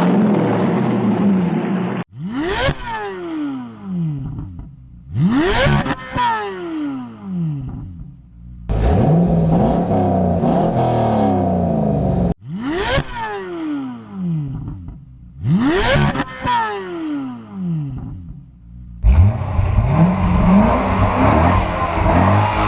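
Corvette Z06 V8 engine revved hard in repeated sharp blips, each climbing quickly and then falling back. A longer held rev comes in the middle, and the engine runs steadily near the end.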